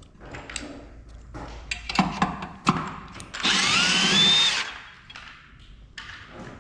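Handling clatter of tools and metal parts, then a power drill or driver runs for about a second and a half, its whine rising as it spins up.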